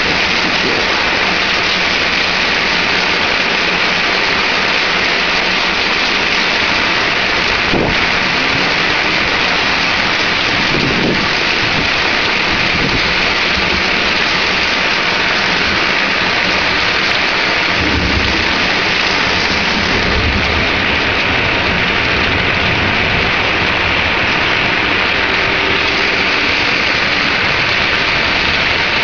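Heavy thunderstorm rain pouring down in a loud, steady hiss, with low thunder rumbling through it.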